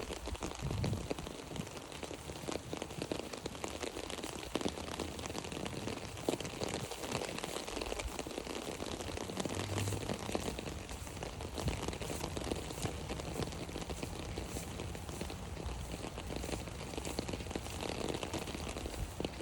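Steady rain falling on an umbrella overhead: a dense, even spatter of fine drop hits, with a couple of soft low thumps.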